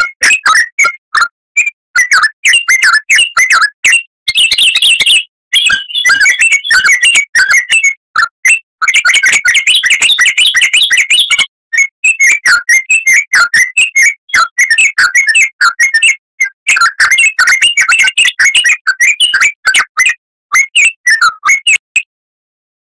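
Oriental magpie-robin (kacer) singing in full voice: a fast, unbroken run of varied chirps, whistles and trills with only brief pauses. The song cuts off abruptly about a second before the end.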